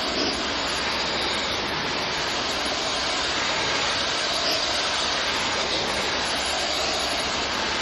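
Steady rushing hiss of water spray and its machine during the washing of an air conditioner's blower fan, even and unbroken throughout.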